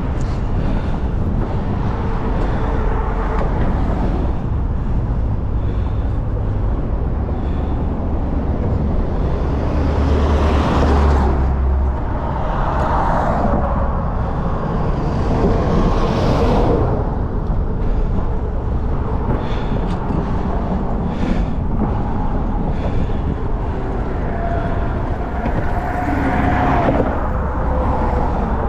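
Road traffic with a steady low rumble and several motor vehicles passing, the loudest a little after ten seconds in and again near the end.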